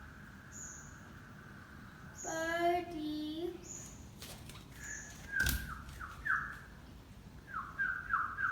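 A person whistling to call a bird: a faint held whistle, then a run of short sliding whistled notes in the second half. A child calls "birdie" once in between, and there is a single sharp knock about five and a half seconds in.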